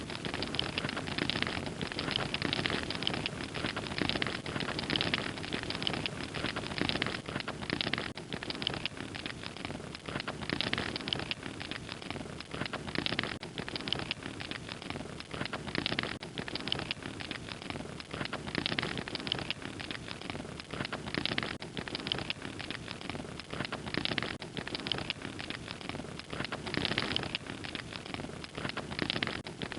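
A fire crackling steadily: a dense, unbroken stream of small pops and snaps over a soft hiss.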